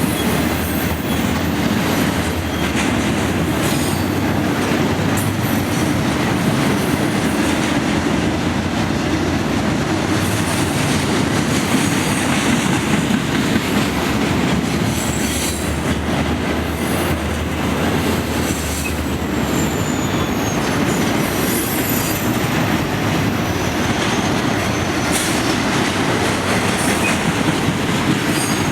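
Intermodal freight train rolling past with a steady rumble and wheel clatter, with faint high wheel squeals now and then.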